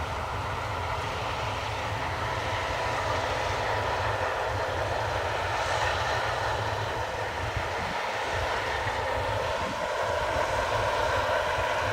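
Case combine harvester running steadily while harvesting barley: a constant machine drone with a low rumble and a steady whine above it.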